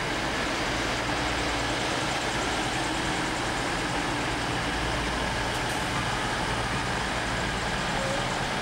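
Virgin Voyager diesel multiple unit passing at close range, its underfloor diesel engines running with a steady low hum over the rolling noise of the train.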